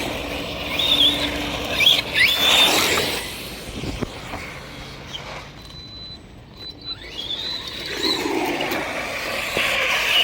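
Electric radio-controlled cars running, the high motor whine rising and falling with throttle over a steady hiss of tyres on the ground.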